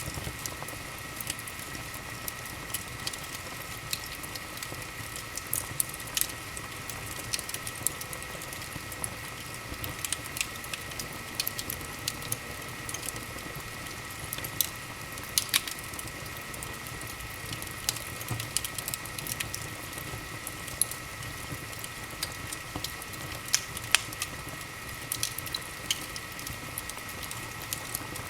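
Wood fire burning in a fireplace: a steady hiss with frequent, irregular sharp crackles and pops. A faint steady high tone runs underneath.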